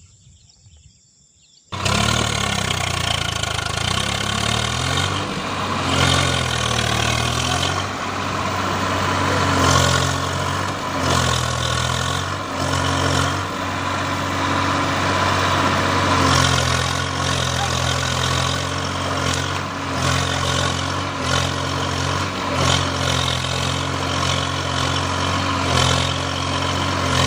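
A tractor engine running steadily at a low, even pitch. It cuts in abruptly about two seconds in, after near silence.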